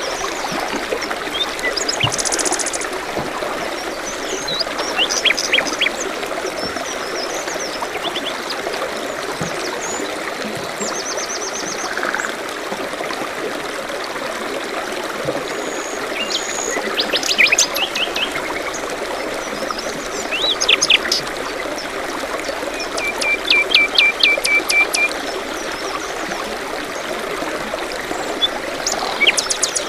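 A stream trickling steadily, with songbirds chirping and trilling over it throughout, including a fast run of repeated notes about three-quarters of the way through.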